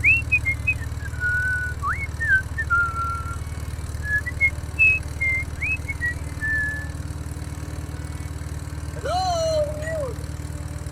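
Steady low hum of a small motor running, with a series of short whistled gliding notes over it in the first part and one lower swooping note near the end.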